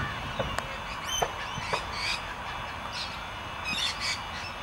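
Birds calling in short, scattered chirps and squawks over steady low-pitched outdoor background noise, with a few sharp clicks.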